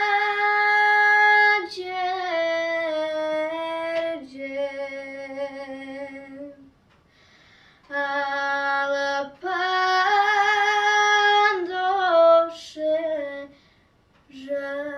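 A woman singing a slow traditional Serbian folk song solo and unaccompanied, in Serbian, drawing each syllable out into long held notes with small wavering ornaments. She breaks off for breath about halfway through and again near the end.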